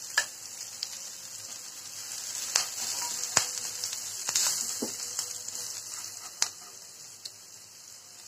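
Ground spices, ginger and green chilli sizzling in hot oil in a non-stick frying pan, stirred with a spatula that clicks against the pan now and then. The sizzle fades toward the end.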